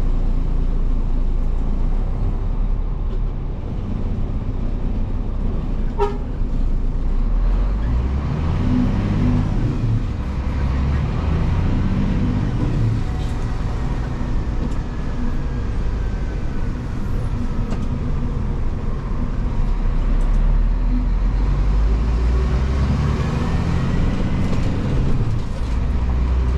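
Scania vacuum truck's diesel engine running under way, a steady low rumble whose pitch changes a few times as the truck drives.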